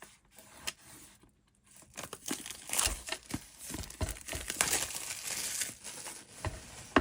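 A notebook's packaging being handled and unwrapped: crinkling and rustling with small clicks and taps, starting about two seconds in and lasting several seconds.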